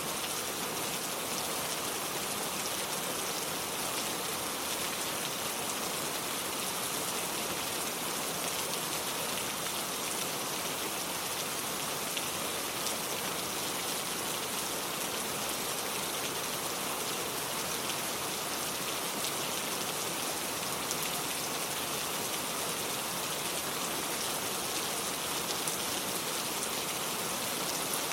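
Steady rain falling on hard surfaces, a continuous even hiss with small scattered drop ticks.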